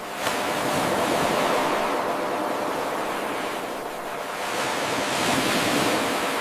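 Ocean surf from an 8-second recording looped end to end: a wave washes in and ebbs, and a second swell builds in the second half. About a quarter second in there is a brief click where the loop joins.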